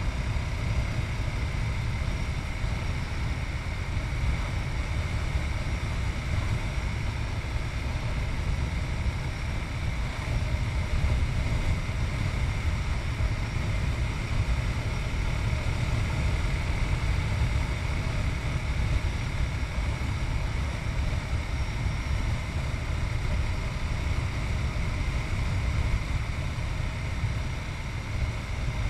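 Yamaha MT-03's 660cc single-cylinder engine running steadily while riding, heard from a chest-mounted camera along with road and wind noise.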